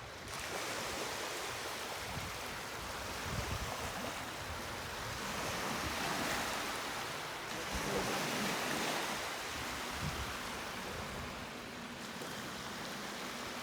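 Small lake waves washing onto a beach, a steady hiss that swells twice in the middle, with wind buffeting the microphone.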